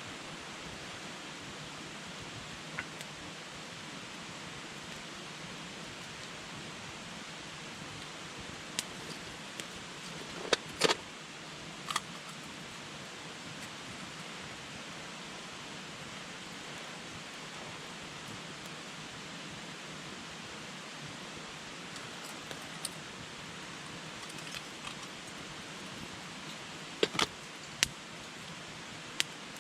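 Wood campfire burning: a steady hiss with sharp crackles and pops from the burning wood now and then, a cluster of them about ten seconds in and another near the end.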